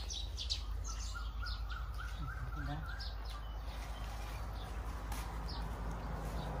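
Birds chirping in the surrounding trees with short, high calls scattered throughout. About a second in, one bird gives a quick run of about eight short notes that climb slightly in pitch. A steady low hum runs underneath.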